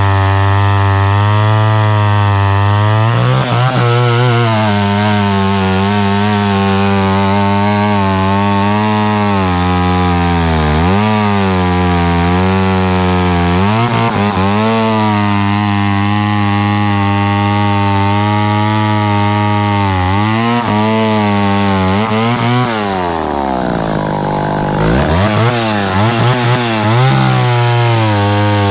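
Two-stroke chainsaw running at high throttle while cutting wood. Its pitch sags under load several times, most deeply near the end, then picks back up.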